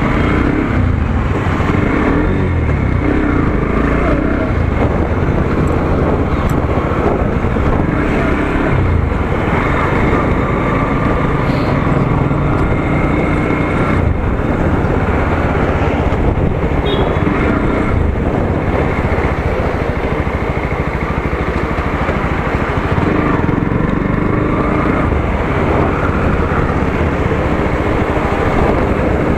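Motorcycle engine running steadily while riding, heard from on the bike, mixed with constant road noise.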